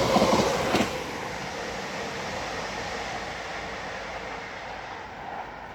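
Class 345 electric multiple unit running away from the bridge, its steady rolling noise slowly fading. A brief voice is heard in the first second.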